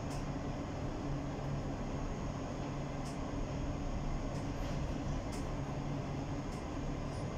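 Steady rumble and low hum of a moving train, heard from inside its last carriage, with a few faint high clicks.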